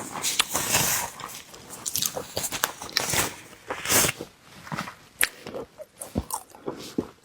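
Close-miked ASMR eating of seafood: wet chewing with irregular sharp crunches and crackles, the loudest bursts about a second in and around three to four seconds in.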